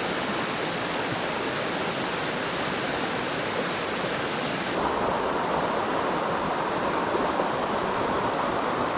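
Mountain stream water rushing steadily. About five seconds in, the rush turns brighter and a little louder.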